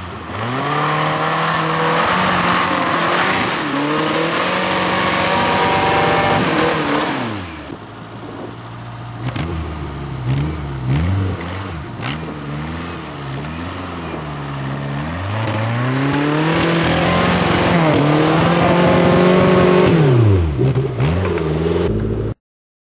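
A Suzuki 4x4's engine revving hard under load and held high for several seconds before easing off. It then revs up and down with a few sharp knocks, climbs high again, and drops back near the end.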